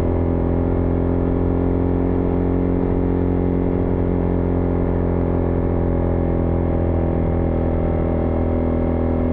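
Husqvarna Vitpilen 401's single-cylinder engine running at a steady speed while riding, an even drone that holds one pitch with no revving or gear changes.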